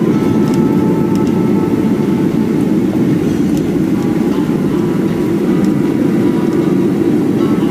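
Steady, loud rumble of a Boeing 737-400's CFM56-3 jet engines and the airflow, heard from inside the passenger cabin.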